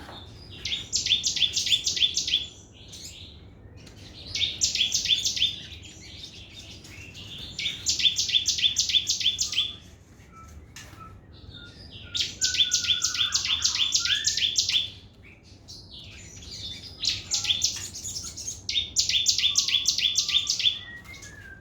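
Sogon songbird singing fast 'trotol' trills: six bursts of quick, evenly repeated high notes, each lasting about two seconds, with short pauses and a few softer chirps between them.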